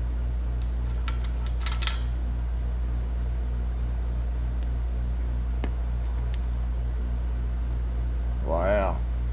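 Steady low mechanical hum throughout, with a few light metallic clinks about one to two seconds in and a couple more midway as broken engine parts are handled.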